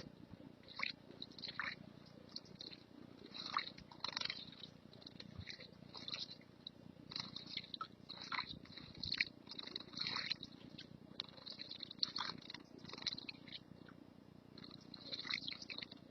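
Small songbird chirping repeatedly: short, high calls, some with a quick downward sweep, coming irregularly over a steady low background rumble.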